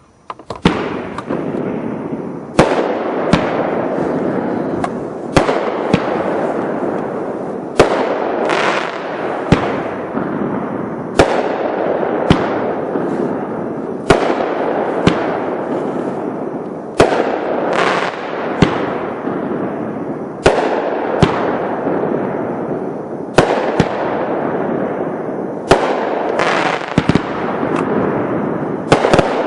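A 500 g aerial firework cake ('Lightning') firing through its performance: sharp reports about once or twice a second over a continuous dense crackle that starts at once and carries on throughout.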